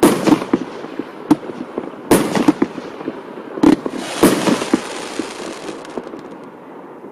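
Громыхало A7607 firework going off: a run of sharp bangs with dense crackling between them, thinning out and dying away near the end.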